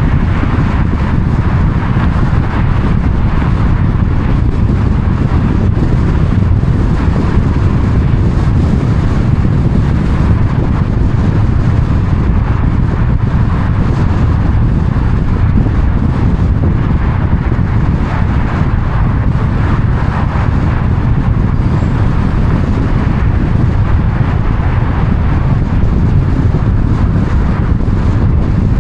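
Steady road noise of a moving car: an even low rumble with a hiss above it and no changes.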